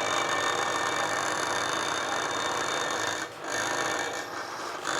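Vibration motor of a 1/12 scale steel RC road roller, spinning the shaking block inside the roller drum at its high level: a steady mechanical buzz. It dips briefly about three seconds in and is softer for a moment near the end before coming back up.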